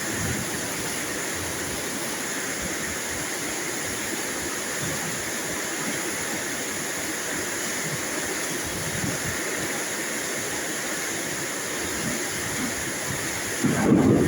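Steady heavy rain, an even rushing hiss. Near the end a brief low rumble of thunder swells up.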